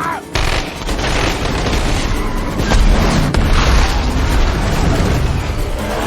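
Action-film sound effects: a sudden loud boom about a third of a second in, then a sustained heavy rumble with crackling and a few sharp cracks, like an explosion or a barrage of gunfire.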